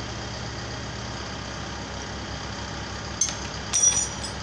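Truck engine idling steadily, with two short metallic clinks near the end.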